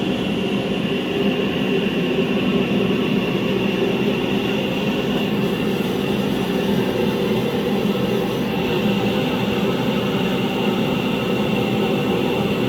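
Steady mechanical drone with a thin, constant high whine over it, unchanging throughout.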